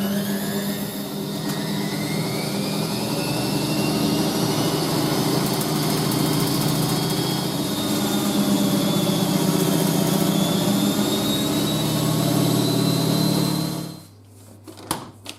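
Washing machine spinning: the motor's whine rises over the first few seconds as the drum speeds up, then holds steady over a deep hum and the rush of the drum. It cuts off suddenly near the end.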